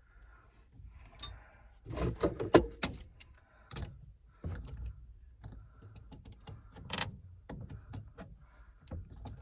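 Irregular clicks, knocks and rattles of tools and hardware being handled, with a loud cluster of clatter about two seconds in and a single sharp knock about seven seconds in.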